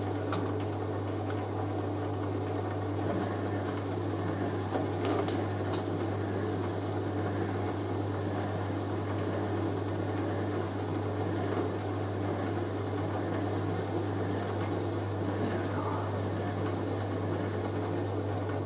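Hoover A3060 Electronic 1100 washing machine running steadily, its motor turning the drum of wet bedding as it tries to distribute the load before spinning. There are two short clicks about five and six seconds in.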